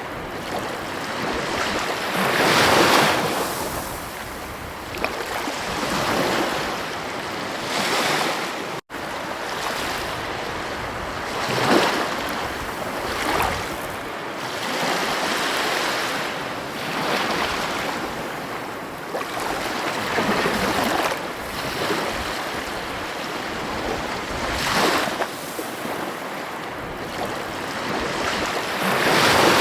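Ocean waves washing onto a beach: a steady surf rush that swells as a wave breaks every few seconds. The sound drops out for an instant about nine seconds in.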